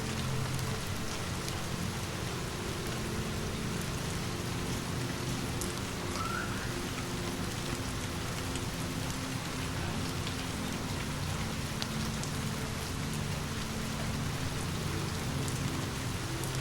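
Steady rain falling, a constant hiss with scattered faint ticks of drops, over a low steady hum.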